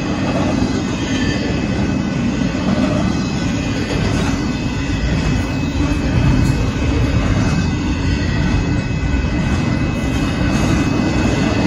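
Union Pacific intermodal freight train passing a grade crossing at speed: a loud, steady rumble of wheels on rail, with a faint steady high tone over it.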